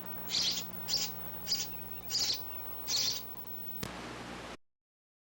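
A bird chirping in short, high chirps about every half second, over a steady electrical hum. A click comes near the end, and then the sound cuts off abruptly.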